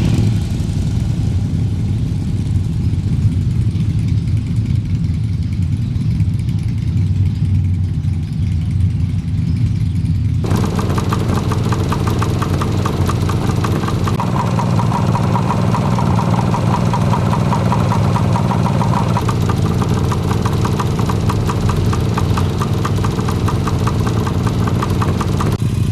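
Motorcycle engine running with a steady low drone. About ten seconds in the sound abruptly turns noisier and brighter.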